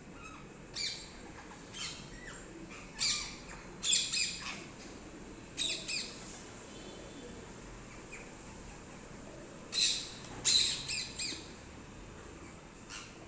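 Pet parrots squawking: short, high calls in clusters every second or so, with a quiet stretch of a few seconds in the middle.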